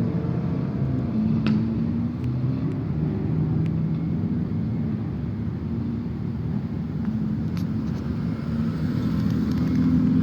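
Car engine and exhaust running at low speed, a low rumble whose pitch drifts up and down a little, with a few short clicks or knocks over it.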